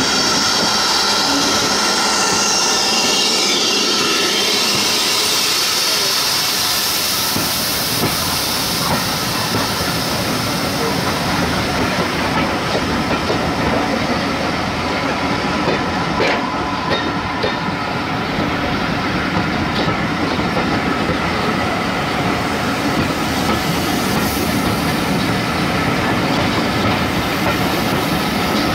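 A train running along the line, with a steady hiss and the wheels clicking over the rail joints. A high whine falls in pitch in the first few seconds.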